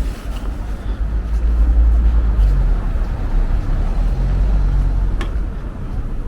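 Low rumble of a road vehicle passing, swelling about a second and a half in and easing off, with a faint shifting engine note and a single sharp click about five seconds in.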